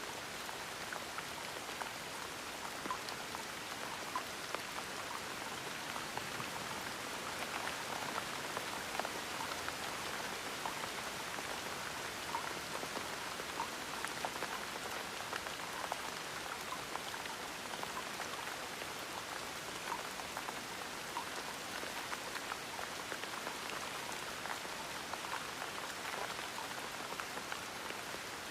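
Gentle rain falling steadily, a soft even hiss with many small scattered drops pattering on a surface.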